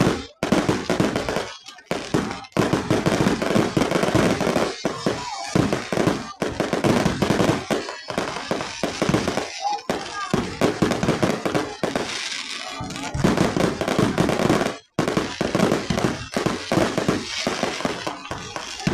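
Firecrackers going off in rapid, dense crackling strings, mixed with music and voices, with a few abrupt short breaks.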